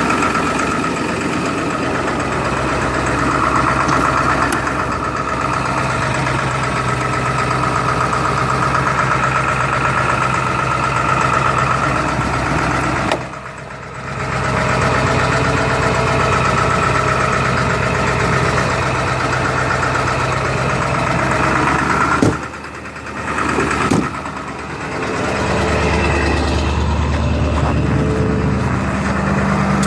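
2002 Ford F-350's 7.3 L Power Stroke V8 turbodiesel idling steadily a few minutes after a cold start, unplugged at about 6 degrees. The sound dips briefly twice, the second dip framed by two sharp clicks.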